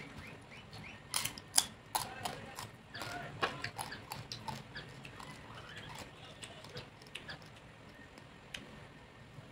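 Close-up chewing and mouth sounds of someone eating roast pork (lechon): a run of wet smacks and crisp clicks, busiest between about one and five seconds in, then sparser.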